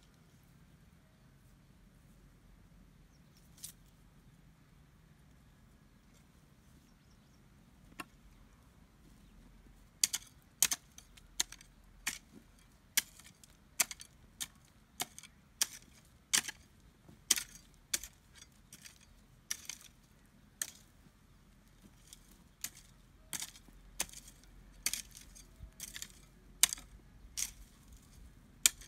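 Sharp, short clinks at an irregular pace of about one or two a second, starting about ten seconds in, over quiet background.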